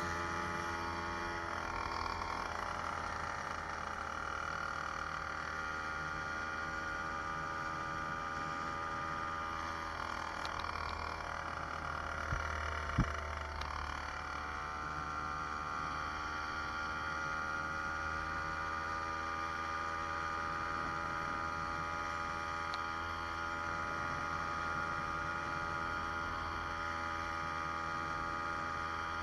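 Motorized bicycle's 66cc two-stroke engine running steadily at cruising speed, its pitch wavering briefly about halfway through. Two short knocks come near the middle.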